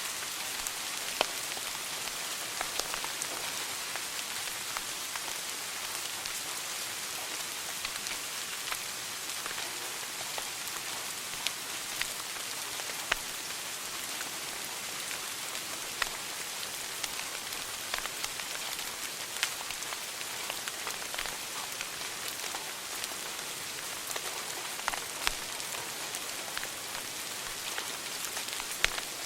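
Wood fire crackling in a fireplace: a steady hiss with irregular sharp pops and snaps, a few of them louder.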